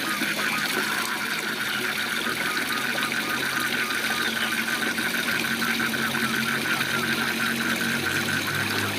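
Steady rushing of a waterfall, with a frog chorus giving a fast, even pulsing call several times a second above it, and a faint low hum underneath.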